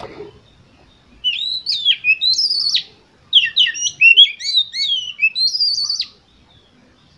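Oriental magpie-robin (kacer) singing in two phrases of varied whistled notes that slide up and down; the second phrase is longer and busier than the first.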